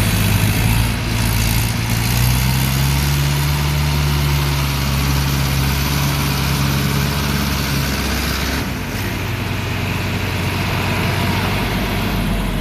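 Tractor diesel engine running steadily with a loud low drone. Its note changes about two-thirds of the way through.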